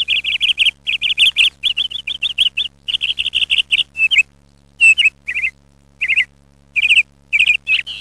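A small bird chirping in fast runs of repeated high notes, then in shorter separate phrases with gaps between them, over a faint steady hum.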